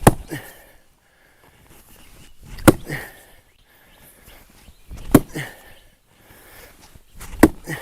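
Axe chopping firewood: four sharp strikes about two and a half seconds apart.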